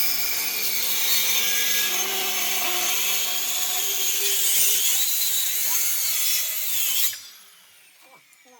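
A woodworking tool working on wood, making a loud, steady noise that cuts off suddenly about seven seconds in, followed by a few faint knocks.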